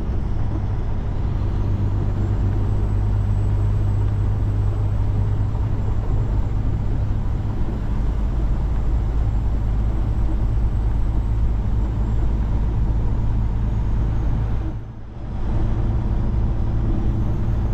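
Peterbilt 389 semi truck's diesel engine running steadily under way, a constant low drone. Its level dips briefly near the end.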